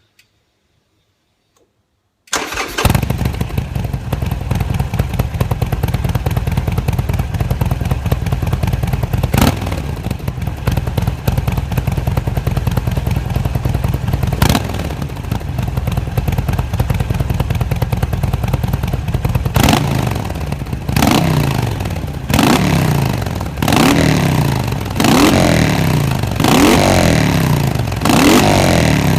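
Harley-Davidson Sportster XL 1200's air-cooled V-twin with an aftermarket Remus exhaust, starting up about two seconds in after a few faint clicks and settling into a lumpy idle. In the last third the throttle is blipped about seven times, each rev rising and dropping back to idle.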